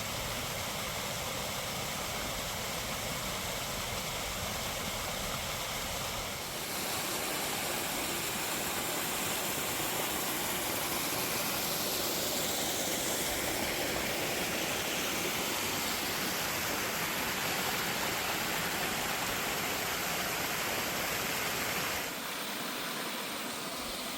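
Steady road and engine noise from a moving truck. After an abrupt change about six seconds in, a louder, even rushing noise like falling water takes over and runs until a second abrupt change near the end.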